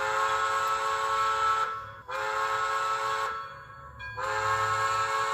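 Recorded steam-locomotive chime whistle played by a TCS WOW sound decoder through a small Soundtraxx 27 mm Mega Bass speaker in a model train's tender. It sounds three blasts of a steady multi-note chord: two shorter ones, then a longer one starting about four seconds in.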